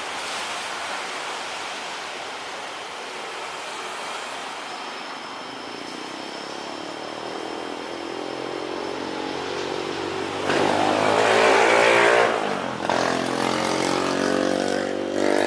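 Jet airliner engine noise growing steadily louder as the plane passes close, with a rasping drone of steady tones coming in partway through and loudest about two-thirds of the way in.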